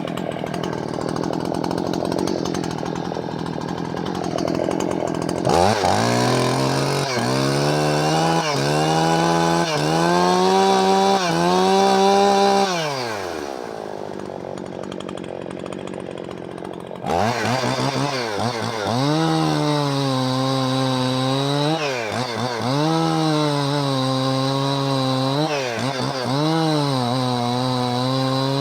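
Husqvarna 55 two-stroke chainsaw engine revving in repeated blips, each one dipping briefly then climbing back to high revs. Around halfway the pitch falls away to a quieter stretch, and the revving resumes a few seconds later.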